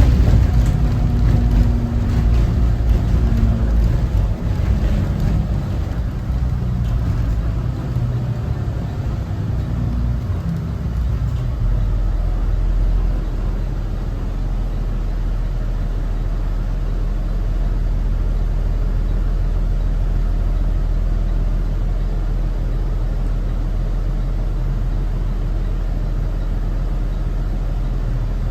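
Cummins ISB 6.7 diesel engine of a Thomas Saf-T-Liner C2 school bus running, heard on board. Its pitch shifts for the first ten or so seconds, then it settles into a steady low hum about twelve seconds in.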